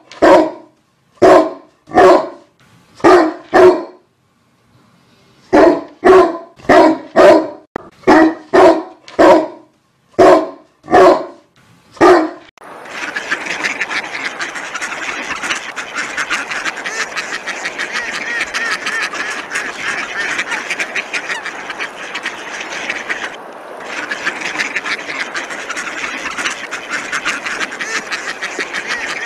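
A dog barking over and over in quick runs of short barks. From about twelve seconds in it gives way to ducks quacking in a dense, continuous chatter.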